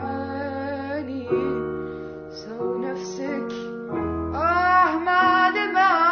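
Music: a female voice singing over held keyboard chords, the singing becoming louder with vibrato about four seconds in.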